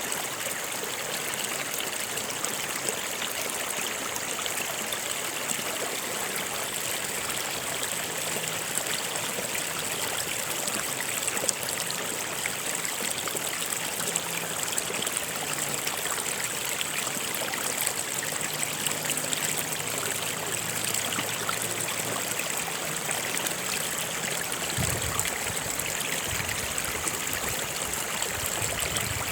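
Stream water flowing over rocks, a steady rushing and trickling.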